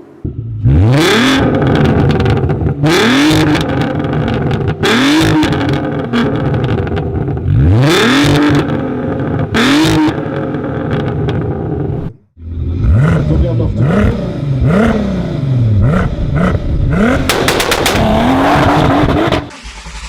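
Volkswagen Golf IV R32's 3.2-litre VR6 engine being free-revved through its exhaust in repeated blips, the pitch rising and falling each time, with sharp cracks at the tops of the revs. About twelve seconds in it cuts to another clip with quicker rev sweeps up and down.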